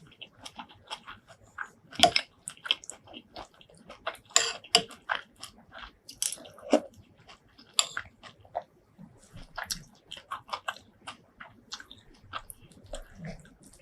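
Close-miked eating: a person chewing and biting food, with many short irregular crunches and wet mouth sounds.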